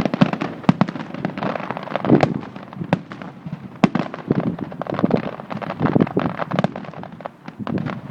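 Fireworks display: a dense, irregular string of sharp bangs and cracks, several a second, with no let-up.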